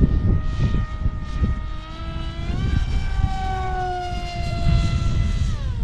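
Electric motor and pusher propeller of an RC foam jet whining in flight. The pitch climbs about two and a half seconds in, holds, then falls away near the end. Wind buffets the microphone throughout.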